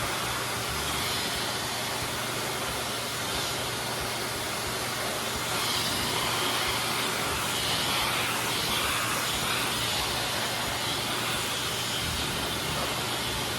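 High-velocity forced-air dog grooming dryer blowing steadily, a constant rushing hiss of air. Its tone brightens a little for a few seconds around the middle.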